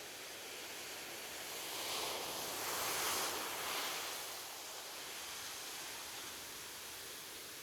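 Ocean surf washing steadily on a beach, with one wave breaking and swelling louder about two to four seconds in before settling back.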